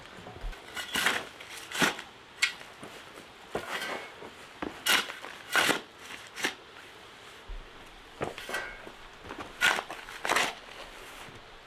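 Irregular crunching and rustling: about ten sharp, noisy strokes, often in uneven pairs with pauses between.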